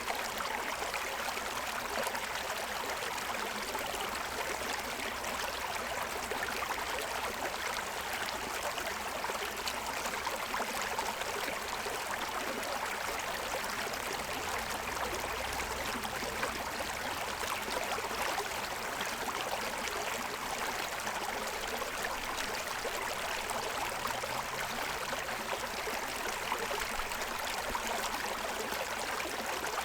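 A shallow stream running and splashing over the stones of its bed, a steady rush of water.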